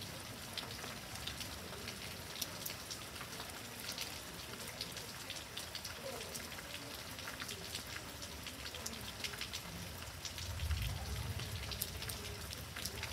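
Steady heavy thunderstorm rain, with many individual drops ticking sharply on a nearby surface. A brief low rumble comes in near the end.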